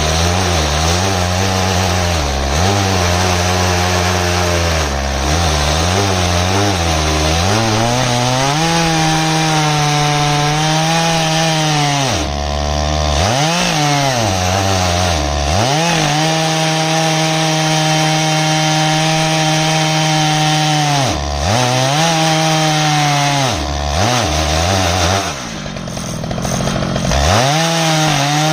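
Stihl MS 881 two-stroke chainsaw on an Alaskan chainsaw mill, running at full throttle under load as it rips lengthwise through an ash log. Its pitch sags and recovers several times and drops further a few seconds before the end before climbing back.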